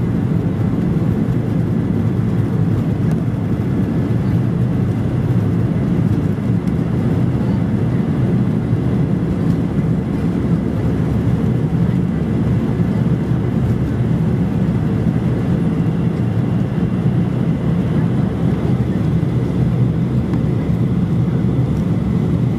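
Steady cabin noise inside a Boeing 737-800: an even, low rumble from its CFM56-7B jet engines and the airflow, with a faint high steady tone above it.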